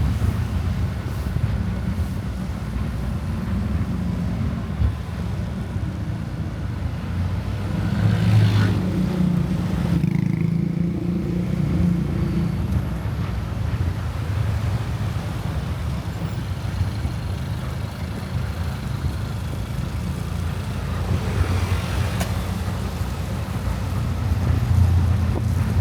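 Motorcycle riding on city streets: a steady low engine and road rumble mixed with wind on the microphone, swelling louder a couple of times.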